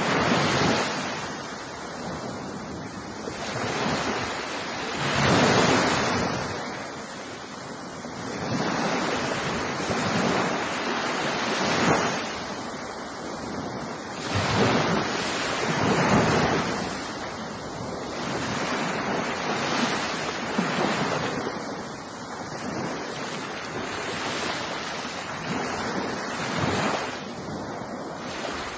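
Ocean waves breaking and washing up on a beach, in swells every few seconds over a continuous surf wash.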